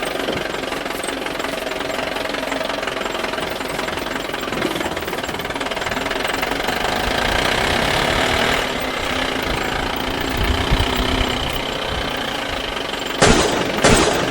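Steady engine-like running sound from a toy vehicle, with three sharp knocks near the end.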